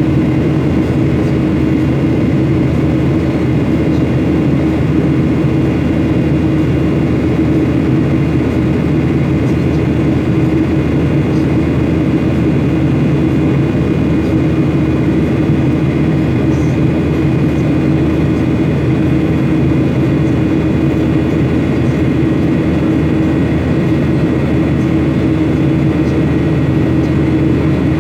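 Steady engine and airflow noise heard inside an airliner's cabin: a loud, even rumble with a constant low hum and a few faint steady higher tones.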